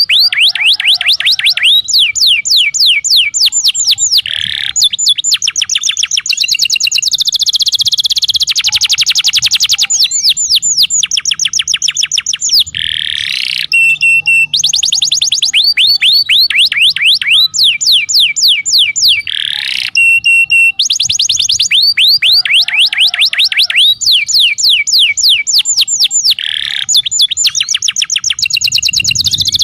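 Domestic canary song: long, loud trills of rapid falling whistled notes, with rolls and rising sweeps. The phrases change every second or two and seem to come round again about every six and a half seconds, as a looped tutor recording for training young or reluctant canaries to sing.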